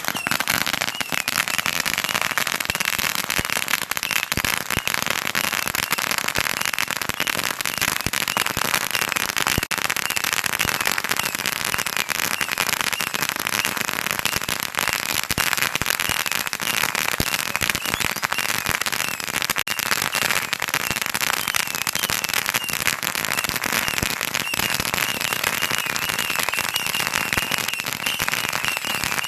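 A firecracker roll going off with a Saturn missile battery: a dense, unbroken string of rapid sharp pops, with a high steady whistle under the crackle.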